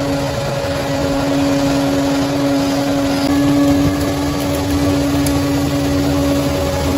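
Bulldozer's diesel engine running steadily, a low rumble with a constant whine over it.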